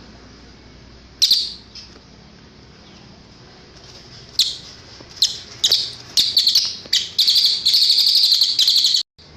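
Cililin songbird singing: a high chirp about a second in, then from about four seconds a run of high chirps coming faster and faster and building into a loud rapid trill that cuts off suddenly near the end.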